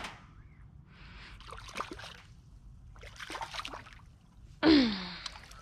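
Water splashing and sloshing as a channel catfish is scooped out of the river in a landing net, with a sudden loud splash and a short falling gasp about three-quarters of the way through.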